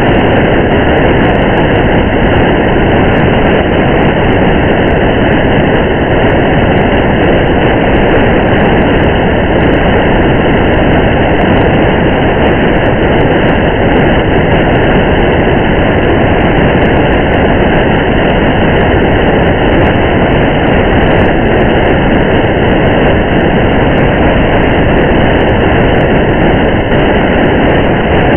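Steady, loud rushing noise of a car driving in the rain: a low road and engine rumble with the hiss of rain, unchanging throughout.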